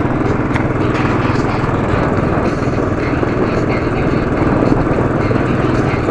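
Royal Enfield Classic 500's single-cylinder engine running steadily while the motorcycle rides along a dirt road.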